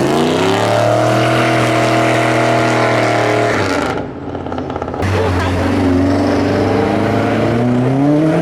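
A car engine revving hard, its pitch climbing and held high, then dropping off about three and a half seconds in. It picks up again about a second later and climbs once more near the end.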